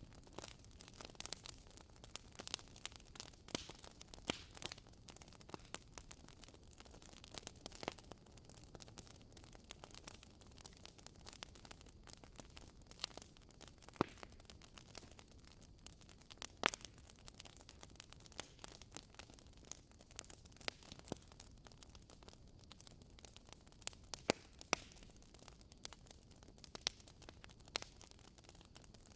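Wood fire burning in a fireplace, with irregular sharp crackles and pops from the burning logs over a soft, steady hiss.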